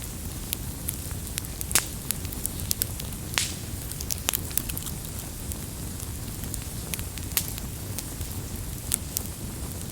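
Wood campfire burning with a low steady rumble and irregular sharp crackles and pops, the loudest pops about two and three and a half seconds in.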